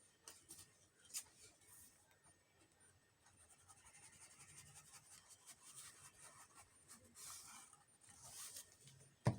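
Faint rustling and scratching of paper being handled and slid on a desk, with a few light ticks and one sharp tap near the end.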